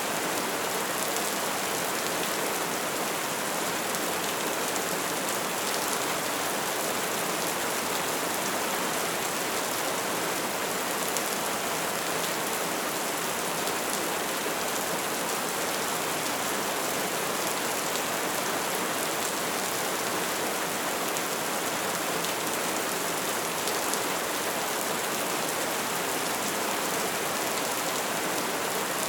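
Wood fire burning with a steady crackle: a dense hiss with many small pops and snaps scattered through it.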